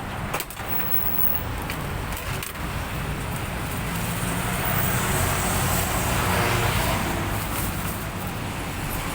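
Road traffic: a motor vehicle's engine running and passing, growing louder about halfway through, with a couple of brief knocks early.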